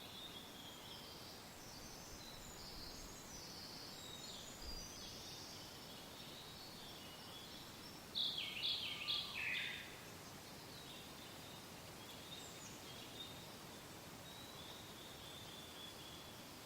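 Songbirds chirping and singing over a soft, steady wind. About eight seconds in, a closer bird gives a louder run of four or five notes stepping down in pitch.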